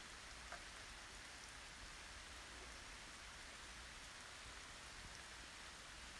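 Faint steady rain hiss during a thunderstorm, with a single drip about half a second in.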